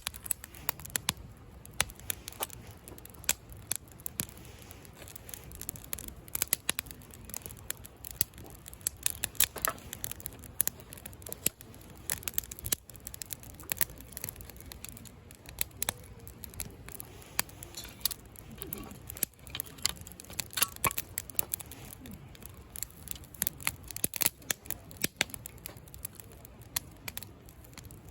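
Wood campfire burning, crackling with frequent sharp, irregular pops and snaps.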